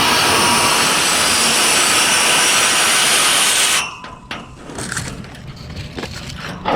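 Garden hose spray nozzle jetting water onto an air conditioner condenser coil: a loud steady hiss that cuts off suddenly a little past halfway, followed by a few quiet knocks and clicks.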